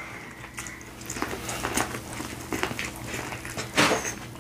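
Close-up eating sounds: biting and chewing sauce-coated corn on the cob, a string of small wet clicks and smacks, with a louder bite nearly four seconds in.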